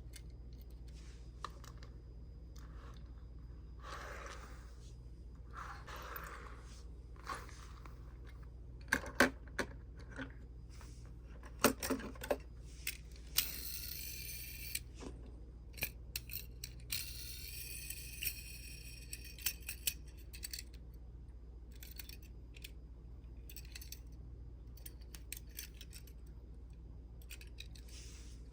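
Die-cast toy minicars being handled: scattered light clicks and clacks of metal and plastic knocking together, with two longer scraping stretches around the middle.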